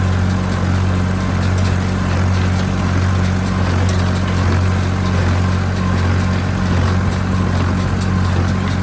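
Tractor engine running steadily under load, driving a Massey Ferguson 20-8 square baler as it takes in a heavy windrow of hay; a steady low drone with faint scattered clicks from the baler's machinery.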